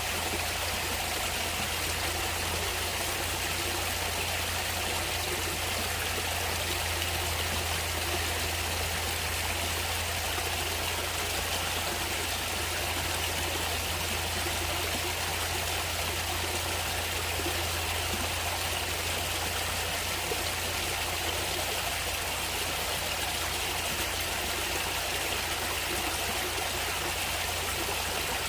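Stream water flowing and trickling, a steady, unbroken rush with a constant low rumble underneath.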